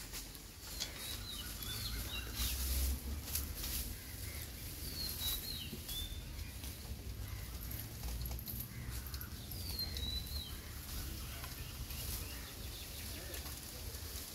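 Birds chirping in three short bursts of quick rising and falling whistles, about four seconds apart, over a steady low rumble and scattered faint rustles.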